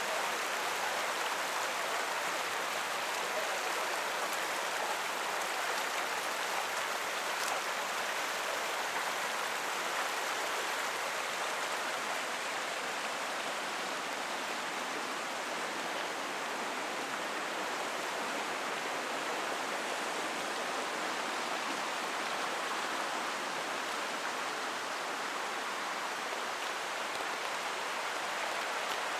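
Forest creek flowing, a steady, unbroken rush of water.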